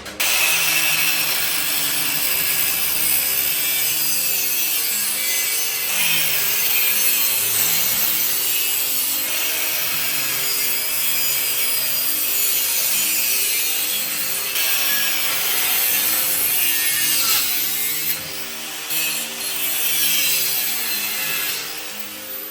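A handheld power tool running loudly against the workpiece, with a couple of brief dips near the end, over soft piano-and-strings background music.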